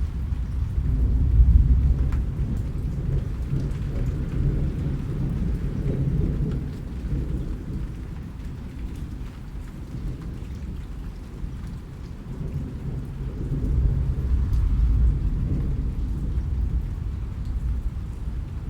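Rain falling steadily with low rolling thunder that swells about a second in and again about three-quarters of the way through, with scattered raindrop ticks over a soft hiss.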